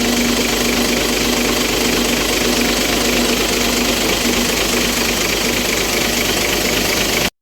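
Isuzu 6WF1 common-rail diesel truck engine running close by: a steady, loud diesel clatter with a constant hum. It cuts off abruptly near the end.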